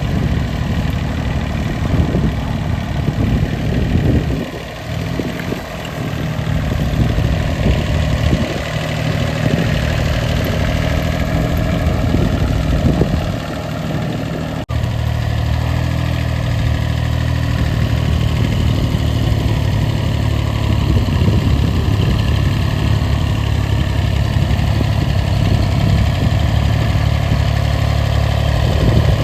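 Small tractor's diesel engine running, its sound rising and falling through the first half. About halfway in it switches abruptly to a steadier, even engine sound.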